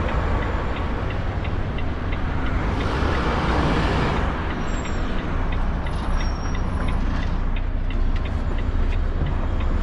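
Articulated lorry's diesel engine running low and steady as it sets up to reverse, with a light steady ticking throughout. A hiss of air from the air brakes comes about three seconds in and lasts about a second.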